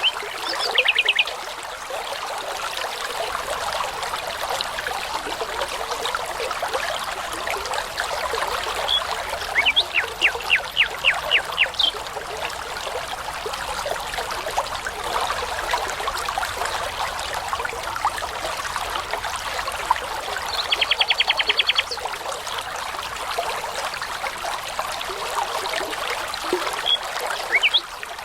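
A babbling brook trickling steadily, with a songbird singing over it. The bird gives three short phrases of rapidly repeated high notes: near the start, about ten seconds in, and about twenty-one seconds in. A few single chirps fall in between.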